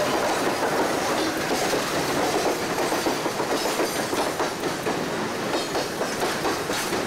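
Passenger cars of a steam excursion train rolling past, their wheels clicking over the rail joints in a quick, uneven clickety-clack.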